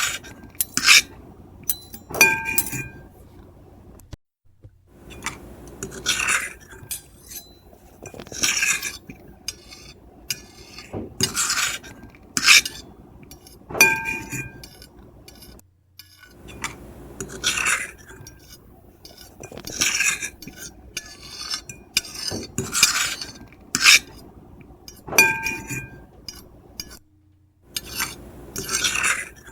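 Metal fork and knife scraping across a plate in repeated strokes, about one a second. Some strokes set the plate ringing briefly with a high clear tone.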